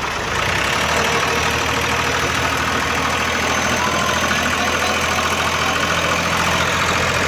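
Tractor's diesel engine working hard under load. It rises in level just after the start, then holds steady. The tractor is straining to pull a stuck, sand-laden trolley, its tyres digging into the ground.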